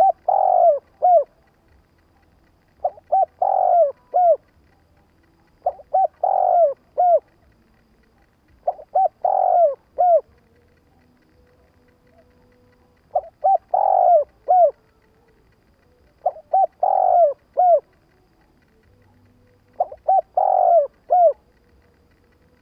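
Spotted dove cooing its calling song, the kind used as a decoy-bird call to lure wild doves. It sings seven phrases, about one every three seconds, each a few short coos around one longer, louder coo.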